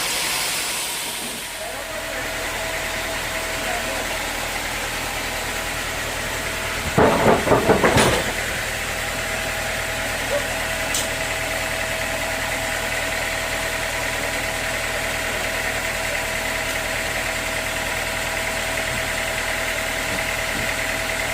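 Sawmill machinery running steadily with a constant hum and whine, while dry teak is sawn. About seven seconds in comes a short, loud run of rapid knocks lasting about a second.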